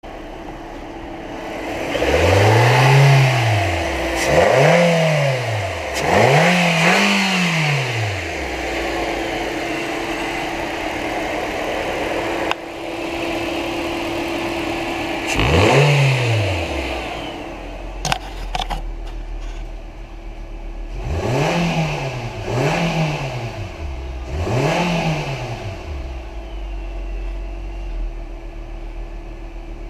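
2016 Nissan Versa's 1.6-litre four-cylinder engine idling and revved in seven short throttle blips, each rising and falling back to idle: three close together early on, one about halfway, and three more quick ones in the second half.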